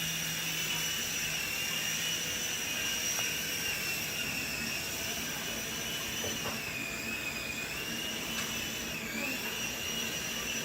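Sky Rover Vigilante toy RC helicopter's small electric motors and rotors whining steadily in flight, the pitch wavering slightly and dipping briefly about nine seconds in.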